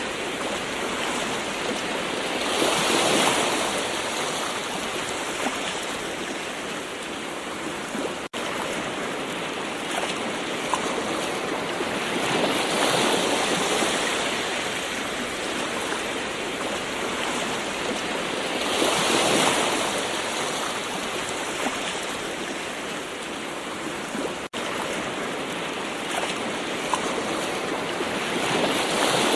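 Gentle ocean waves: a steady wash of surf that swells up and falls back every several seconds. The sound cuts out for a split second twice.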